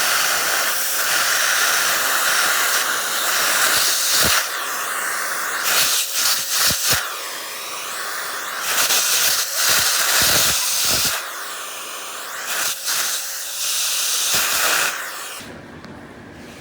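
Vacuum cleaner running, sucking coffee grounds out of a coffee grinder's wheel; its airy note shifts as the nozzle moves, with a few light knocks against the machine. It is switched off near the end.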